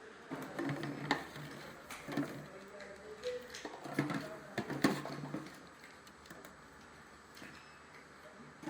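Irregular clicks and knocks of light machinery or parts being handled, busiest over the first five seconds and then quieter.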